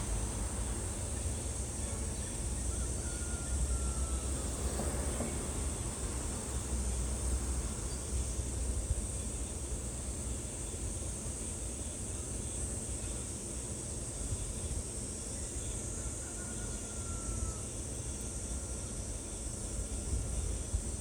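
Outdoor ambience: a steady high-pitched hiss or drone with a low rumble underneath, and two faint short falling whistles, about 3 and 16 seconds in.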